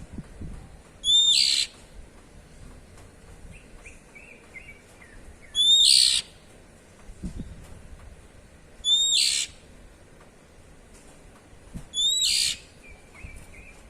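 Oriental magpie-robin (kacer) giving loud, drawn-out 'cier' calls, four of them about three seconds apart, each with a quick rising start. Faint soft twittering between the calls.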